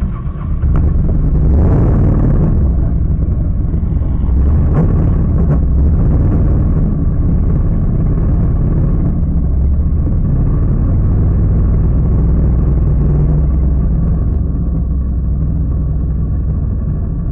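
Quad bike (ATV) engines running, a loud steady low rumble that eases slightly near the end.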